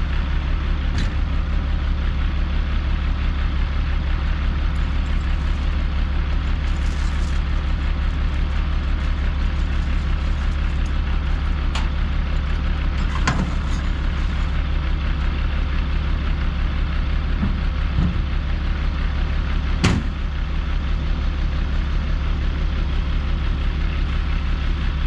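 Log truck engine running steadily, with a few sharp knocks.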